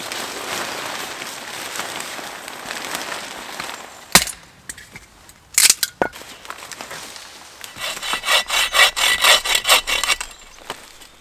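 Hand saw cutting wood in quick back-and-forth strokes, about four or five a second, loudest in the second half. Before it there is a steady hiss, then a few sharp knocks.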